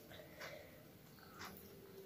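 Faint wet mouth sounds of a child eating rice by hand: soft chewing with two short smacks, about half a second and a second and a half in.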